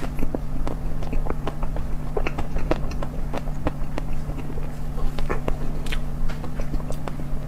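Close-miked eating: bites and chewing with a run of irregular crisp clicks and crunches, several a second, over a steady low hum.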